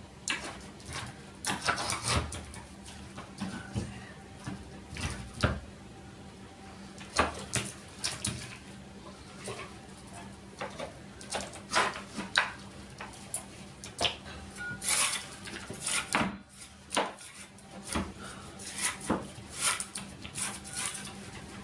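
Irregular scraping and sharp knocking of a hand tool working ceramic tiles and their adhesive loose from a shower wall, with a few longer scrapes among short clicks and knocks.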